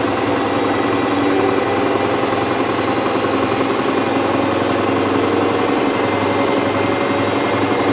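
Hoover VisionTech washing machine running loudly, a steady mechanical rumble with a high whine that creeps slowly up in pitch.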